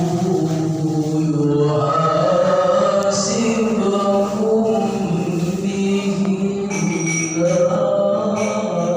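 A male qari reciting the Quran in the melodic tilawah style, holding long ornamented phrases that waver and bend in pitch. His voice is amplified through a Toa horn loudspeaker.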